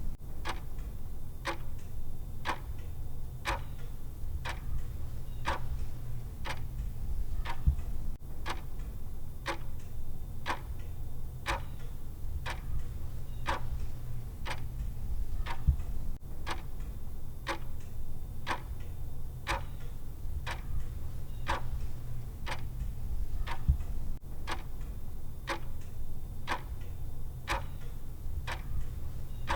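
Clock-style ticking of a countdown timer's tick sound, one sharp tick about every second, evenly paced, over a steady low hum.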